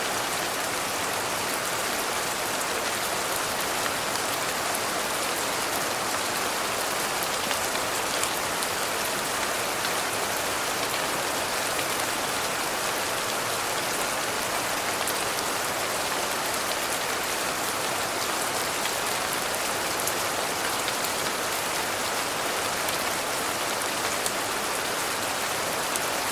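Steady rain falling: an even hiss with fine scattered drop ticks.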